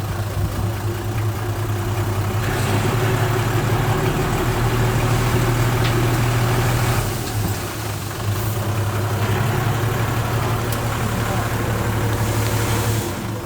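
Diesel engine of heavy earthmoving machinery running steadily. It works harder and louder from about two seconds in, eases off briefly around seven seconds, then pulls again before easing near the end.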